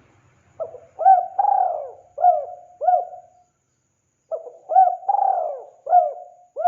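Spotted dove (tekukur) cooing: two phrases of several short coos, each with one longer drawn-out coo in the middle, separated by a brief pause.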